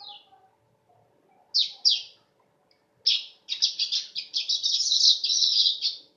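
Manyar (weaver bird) singing: a short falling note, then two harsh notes, then a long run of rapid, scratchy chattering notes lasting about three seconds.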